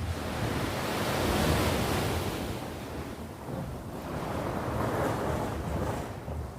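Sea waves washing onto the shore, the surf swelling about a second in and again around five seconds. A low rumble of wind on the microphone runs underneath.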